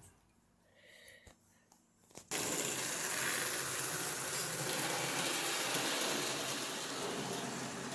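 A small electric motor whirring steadily, as of a battery-powered toy train running along its track. It starts suddenly about two seconds in, after a near-silent start.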